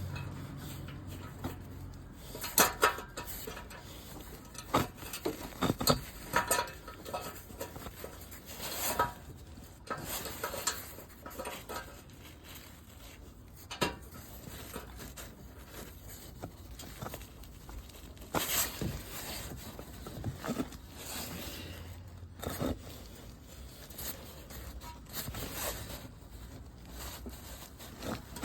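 Irregular metallic clinks, taps and knocks of hand work on a steel exhaust hanger bracket and clamp, with a few sharper knocks among quieter handling noise.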